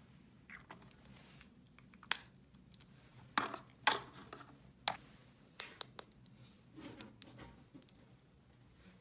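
Small plastic toy pieces handled by hand: irregular sharp clicks and brief scrapes and rustles, busiest in the middle.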